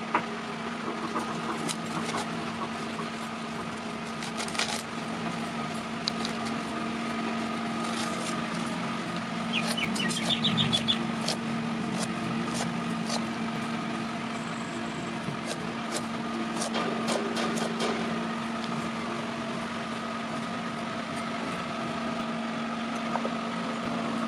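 A steady machine hum with scattered light clicks and knocks, and a brief high chirping squeak about ten seconds in.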